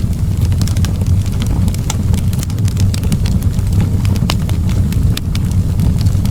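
Wood fire in a fireplace crackling, with frequent sharp irregular pops and snaps over a steady low rumble of the burning fire.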